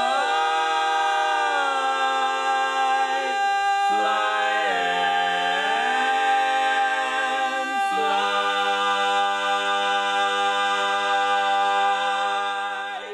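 An a cappella vocal group singing long, held chords in close harmony with no instruments, moving to new chords about four and eight seconds in, and the final chord stopping abruptly near the end.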